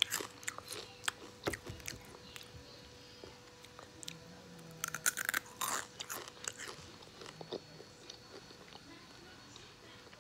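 A person chewing candy close to the microphone, with a run of crisp crunching clicks, thickest near the start and again around five to six seconds in, then fewer.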